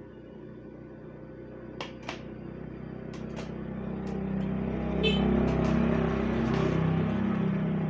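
Yamaha F1ZR two-stroke motorcycle engine running through its modified exhaust, getting steadily louder over the first five seconds and then holding, with a few sharp clicks early on.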